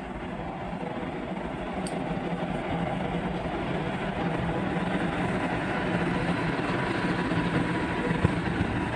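Railway train running along the tracks, a steady rumble with a low hum that slowly grows louder.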